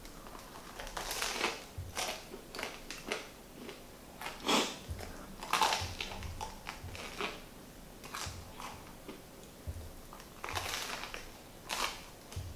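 A crusty ciabatta sandwich being bitten into and chewed: irregular crunches and crackles of the bread, about one or two a second, with a louder bite a few times.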